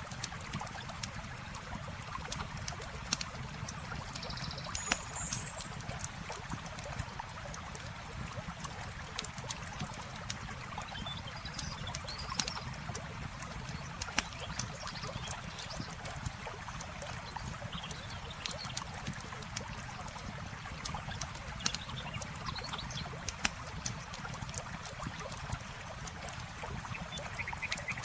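Campfire crackling, with frequent sharp pops, over a steady rush of running water. A few short high chirps come and go.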